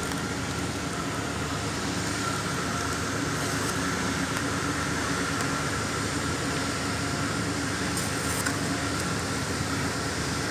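Steady background hum and hiss like a running fan or air-conditioning unit, with a few faint light clicks about three and a half seconds and eight seconds in.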